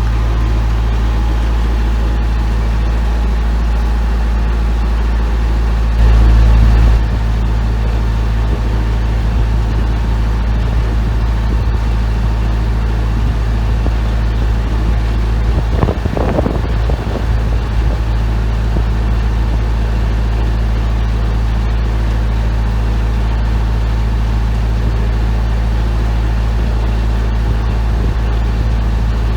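Narrowboat diesel engine running steadily at cruising speed, a constant low hum, briefly louder for about a second near the start.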